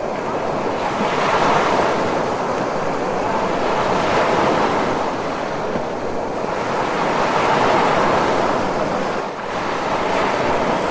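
Ocean surf: a continuous rush of breaking waves that swells and eases about three times in slow surges.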